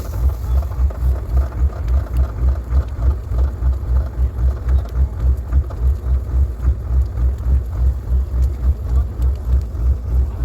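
Tractor's diesel engine running steadily, a loud low rumble that throbs evenly about three to four times a second.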